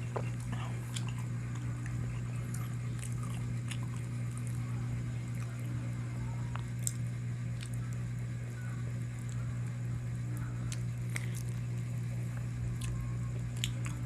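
A person biting and chewing spicy chicken close to the microphone, with scattered small wet clicks, over a steady low hum.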